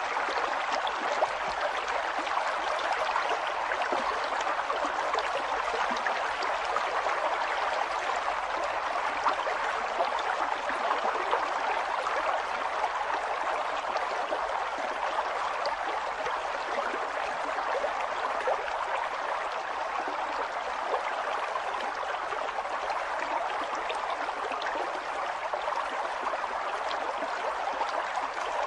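River water flowing over rocks, a steady rushing with small splashes and gurgles throughout.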